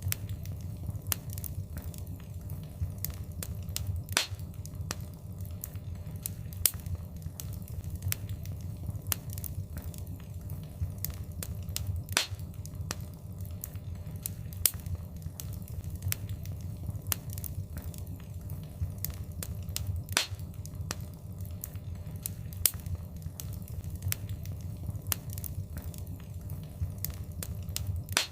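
Wood fire crackling in a fireplace: irregular sharp pops and snaps, several a second, a few louder cracks among them, over a steady low rumble of the flames.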